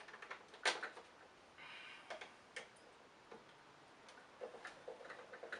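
Plastic clicks and knocks of an upright vacuum cleaner's casing parts being handled and fitted back together, after a belt and brush roll refit. One sharp click a little under a second in is the loudest, followed by scattered lighter ticks.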